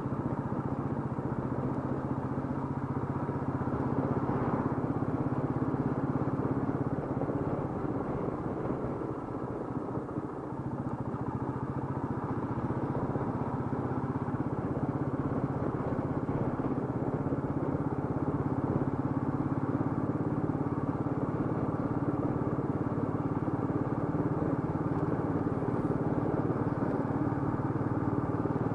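Royal Enfield Meteor 350's single-cylinder engine running steadily under way, its note dipping briefly about ten seconds in.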